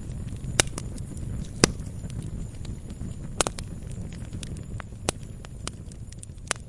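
Wood fire burning in a fireplace: irregular sharp pops and snaps over a steady low rumble of the flames, with the loudest pop a little under two seconds in.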